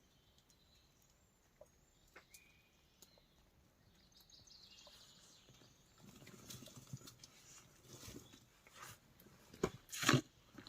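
A wild boar rustling and snuffling through wet forest litter, with scattered light knocks, then a short loud sound about ten seconds in.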